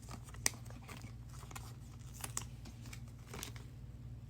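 Football trading cards being handled and flipped through, with faint crinkling of pack wrappers and a few soft clicks, over a low steady hum.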